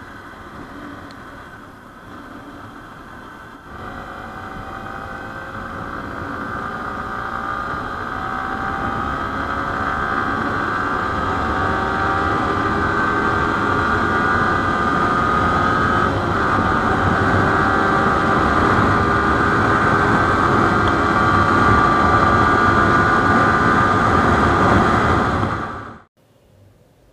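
Sport motorcycle engine pulling up through the revs, its pitch climbing slowly and steadily and getting louder, with a brief break about sixteen seconds in, over a growing rush of wind. It cuts off suddenly near the end.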